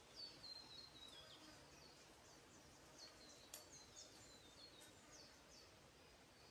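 Faint high-pitched calls of small forest birds. A quick run of short chirps steps down in pitch over the first second and a half, followed by scattered short chirps, with one sharp click about three and a half seconds in.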